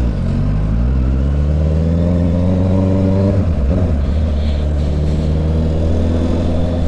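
Honda CB650 motorcycle's inline-four engine accelerating, its pitch climbing steadily, then dropping sharply about three and a half seconds in at a gear change before pulling up again and holding at a steady pace.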